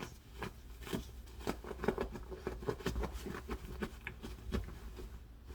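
Bichon Frisé making a rapid, irregular run of scratching and tapping sounds as it paws and moves about.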